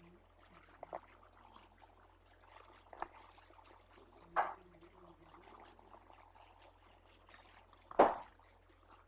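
A sleeping dog snoring: soft, breathy snores with a few short bursts, a stronger one about halfway through and the loudest near the end.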